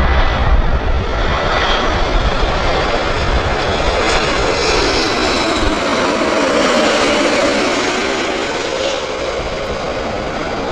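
Jet airliner passing low overhead on final approach: steady engine noise with a whine that sinks a little in pitch as it goes by, easing off near the end.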